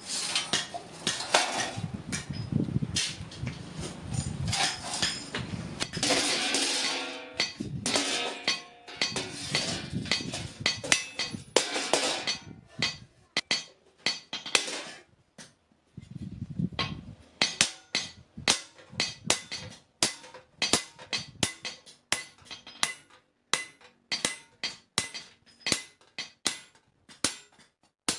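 Blacksmith's hammer striking steel on an anvil while forging a spade blade: sharp metallic blows with a ringing tail, dense and overlapping in the first half, then separate strikes about two to three a second.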